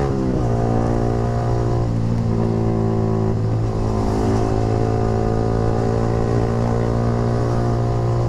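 Yamaha R15 V3's single-cylinder engine sounding through a short Proliner racing exhaust while riding. The pitch drops in the first half second as the revs fall, then holds at a steady engine note.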